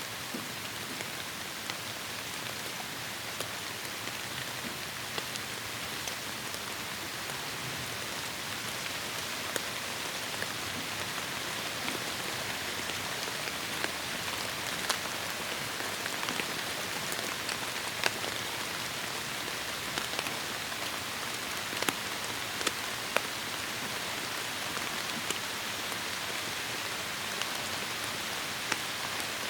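Heavy rain falling steadily on forest foliage, a dense even hiss with many distinct drops ticking over it, the drops growing more frequent after about ten seconds.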